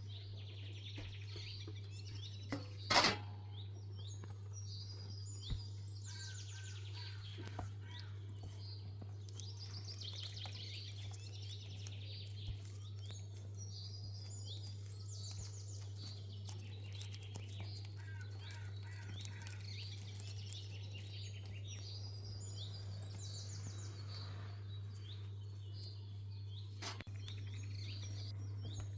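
Small birds chirping and twittering repeatedly over a steady low electrical hum, with a sharp knock about three seconds in and another near the end.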